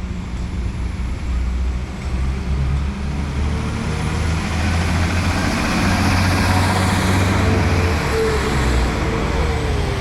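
Northern class 195 diesel multiple unit's engines running at a station platform as the train pulls away. The sound swells from about the middle on, with a faint whine near the end.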